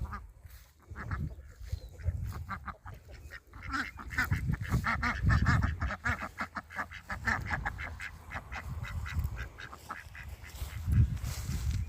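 Domestic ducks quacking, with a fast chattering run of calls in the middle and scattered calls before and after, over a low rumble.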